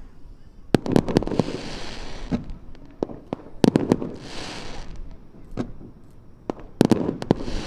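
Aerial fireworks bursting: three volleys of sharp bangs about three seconds apart, each followed by about a second of crackling.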